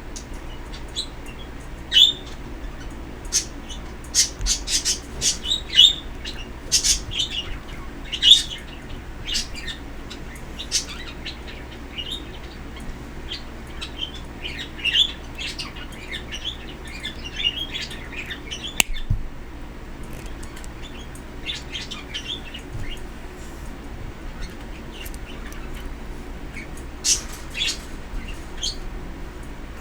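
Pet birds chirping in short, scattered calls, busiest in the first half, over a steady low hum.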